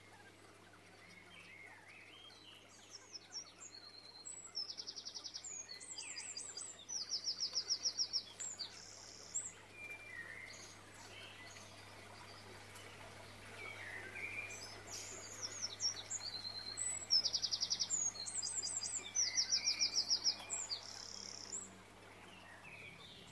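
Birds chirping and singing in rapid high trills, in two bouts: one a few seconds in and another in the second half.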